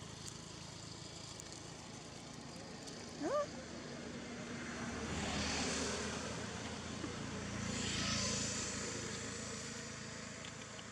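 Two motor vehicles passing, each swelling up and fading away, over a steady outdoor background. A short rising squeak comes about three seconds in.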